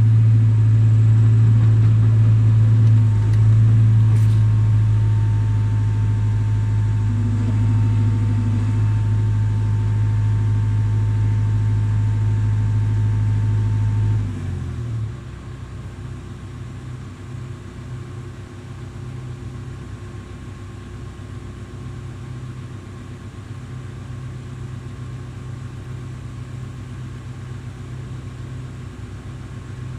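A heavy engine running steadily, most likely the excavator's diesel engine, with a faint high whine over it. About halfway through it drops sharply to a much quieter low running hum, as if throttled back to idle.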